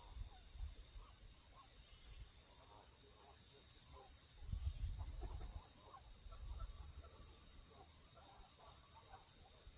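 Insects trilling steadily in a high, constant chorus, with a higher pulsing layer that swells and drops about once a second. About halfway through, a short low rumble of handling or wind on the microphone.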